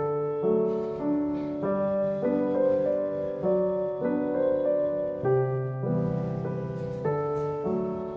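Soft background piano music, slow and gentle, with notes and chords changing about every half second.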